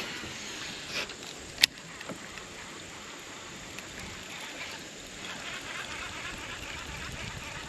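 Steady hiss of water and wind around a small boat on a river, with a softer click about a second in and a sharp click about a second and a half in.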